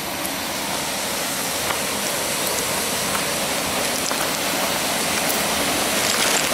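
Steady rushing hiss of rain and wind, slowly growing a little louder, with a few faint ticks.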